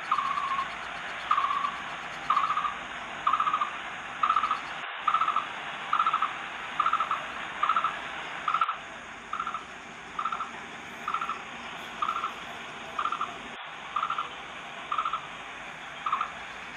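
A bird calling a single short note over and over, about once a second, a little fainter toward the end, over a steady hiss.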